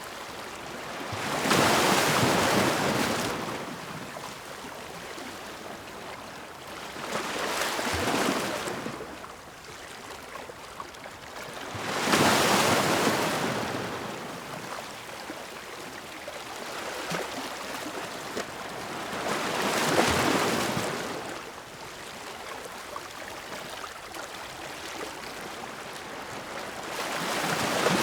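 Ocean waves breaking, five of them several seconds apart, each swelling into a loud rush and fading back into a steady hissing wash.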